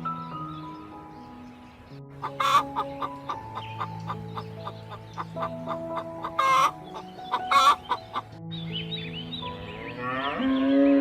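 Chickens clucking in a rapid run over gentle background music, with three loud squawks through the middle. Near the end the clucking stops and other calls with gliding pitch begin.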